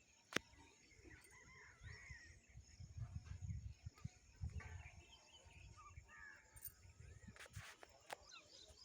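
Faint outdoor ambience: scattered bird chirps over a low uneven rumble, with one sharp click about half a second in.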